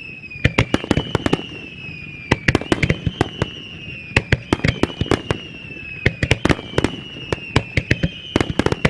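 Starmine fireworks barrage: aerial shells bursting in rapid clusters of sharp bangs, several a second. Over them runs a whistling tone that slides down in pitch and restarts about every second and a half.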